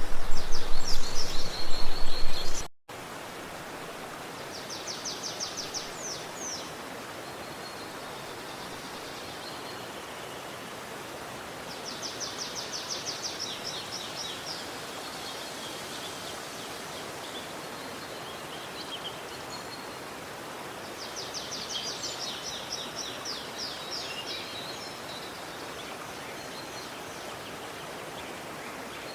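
Steady rushing water of a forest stream, with a bird singing a rapid high trill three times, about every eight seconds. The first few seconds are louder, with busier high calls, then cut out for a moment.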